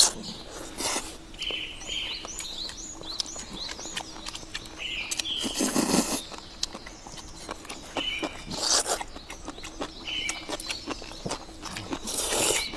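People chewing and crunching food, with several louder crunching bursts. Short bird chirps recur every couple of seconds in the background.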